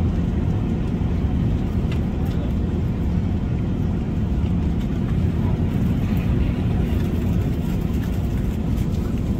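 Steady low rumble of airliner cabin noise inside an Airbus A380 in cruise flight, with a few faint light clicks over it.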